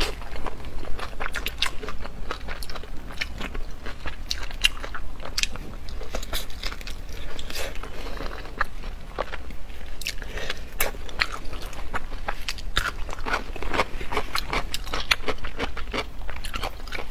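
A person biting into and chewing crispy food close to a clip-on microphone: a dense, irregular run of crunches and crackles.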